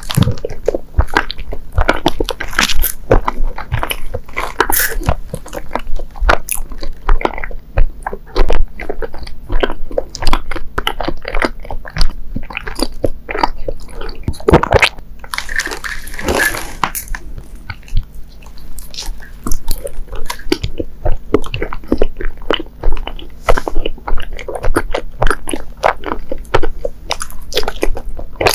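Close-miked chewing of soft, sticky Japanese rice-cake sweets, dango and mochi: a dense run of wet mouth smacks and clicks, with a longer, noisier stretch about halfway through.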